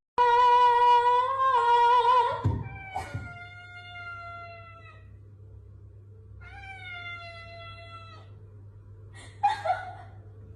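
A cat meowing: one long, loud, wavering meow, then two long drawn-out meows a few seconds apart and a shorter one near the end. A faint low hum runs underneath.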